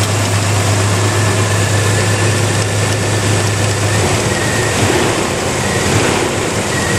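1987 Chevy S10 pickup's engine idling, a steady low hum that turns rougher and less even about four seconds in.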